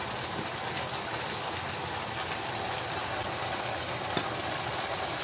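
Chicken curry sizzling in a wok over a gas flame, a steady soft hiss, with a light tap about four seconds in.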